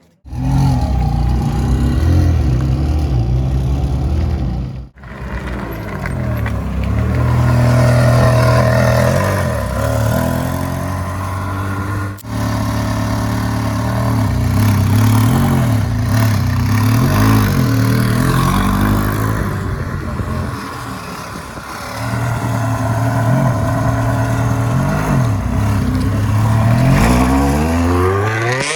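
Ferrari 360 Challenge Stradale's 3.6-litre V8 revving and accelerating, its pitch climbing and dropping back again and again through gear changes, with two abrupt breaks in the sound, about five and twelve seconds in.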